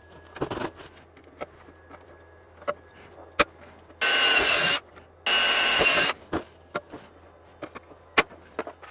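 A power drill runs in two short bursts of under a second each, about four and five seconds in, drilling through aluminium strip. Scattered sharp clicks and knocks of metal parts and tools are handled around it.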